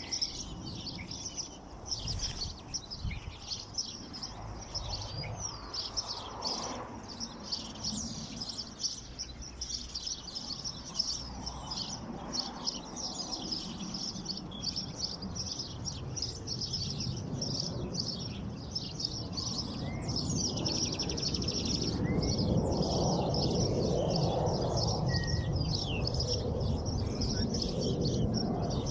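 Many small songbirds chirping and trilling together in a dense, continuous chorus. Beneath it runs a low background rumble that grows louder in the second half.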